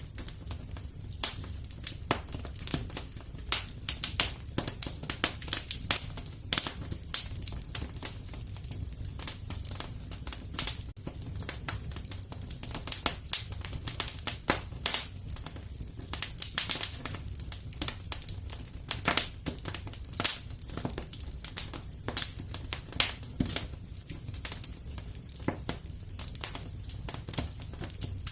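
Wood fire crackling in a fireplace: a steady low rumble of flames under irregular sharp pops and snaps.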